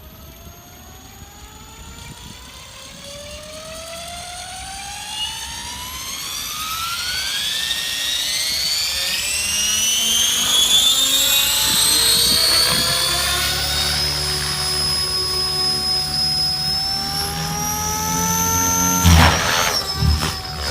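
Synergy 696 electric RC helicopter spooling up: the motor and gear whine climbs steadily in pitch for about twelve seconds, then levels off into a steady high whine as a low rotor hum comes in. A short loud thump about nineteen seconds in.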